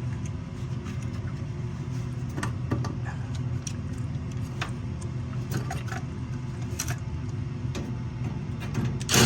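Scattered light clicks and taps of furnace parts and metal panels being handled and fitted, over a steady low hum, with a louder burst of clattering noise right at the end.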